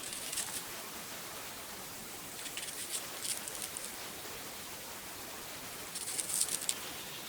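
Three short bursts of dry crackling and rustling, near the start, in the middle and near the end, over a steady hiss.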